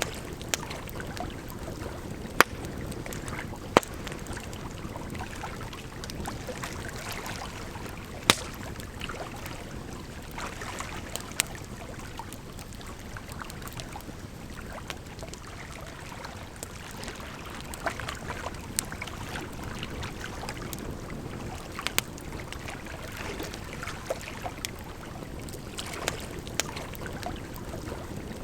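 Campfire crackling, with sharp irregular pops and snaps, over a steady rush of flowing water.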